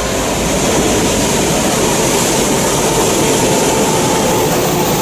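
Shinkansen train running: a steady rumble and rushing noise, with a faint whine that rises from about four seconds in.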